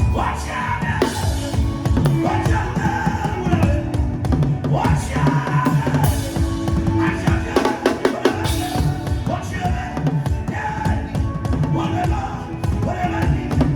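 Drum music: fast, continuous drumming with many strokes a second, with pitched sounds gliding up and down over the beat.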